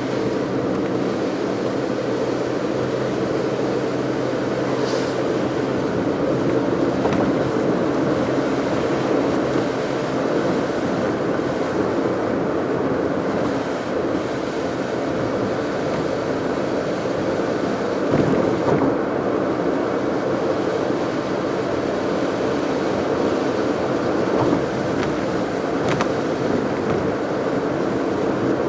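Car on the move: steady road and engine noise, with a faint low engine hum in the first part that fades about a third of the way through.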